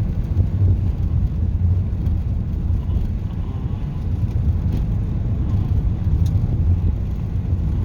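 Car driving at a steady pace: a continuous low engine and road rumble.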